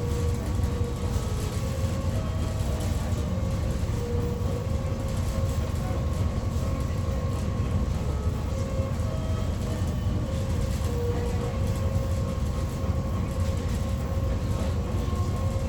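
Fast ferry's engines running steadily: a constant low rumble with a faint steady hum above it.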